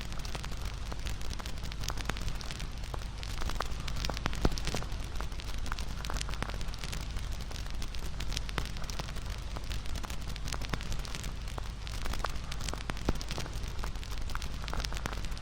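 Wood bonfire crackling: frequent irregular pops and snaps over a steady low rumble of flames.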